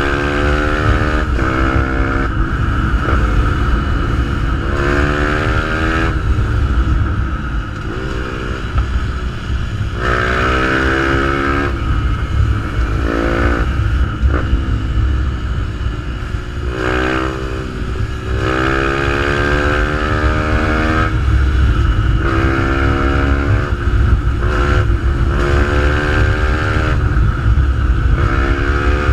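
Fantic 125 supermotard's single-cylinder engine through a GPR exhaust, being ridden hard: the revs climb, drop as it shifts, and climb again many times over, with some stretches of the revs falling off.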